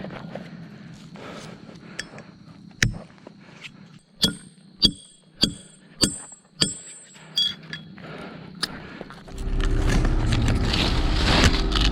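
A run of about six sharp clinking strikes with a brief metallic ring, evenly spaced about half a second apart, then background music comes in near the end.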